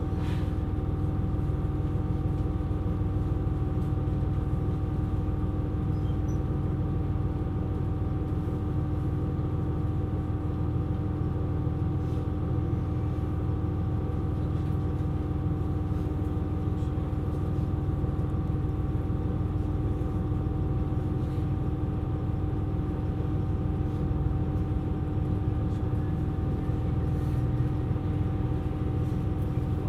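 KiHa 127 series diesel railcar running, its engine giving a steady drone of constant tones over a low rumble that holds unchanged throughout.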